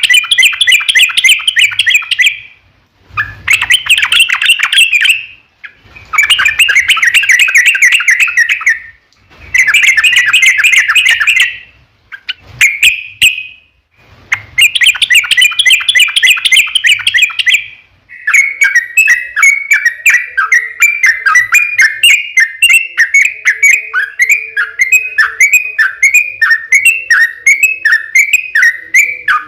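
Yellow-vented bulbul (trucukan) singing a long, loud 'ropel' song of rapid chattering in bursts of two to three seconds with short pauses between. About eighteen seconds in, it changes to a steady string of short, quickly repeated phrases.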